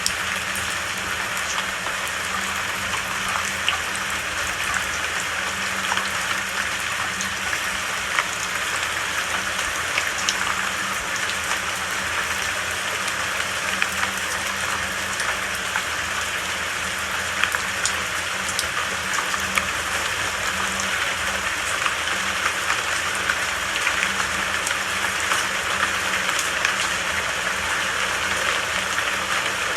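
Steady rain falling, with scattered sharp ticks of single drops striking a surface.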